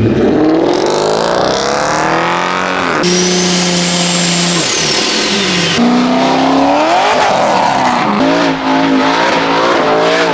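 Car engines revving, their pitch climbing and falling, in several cut-together clips whose sound changes abruptly about three and six seconds in.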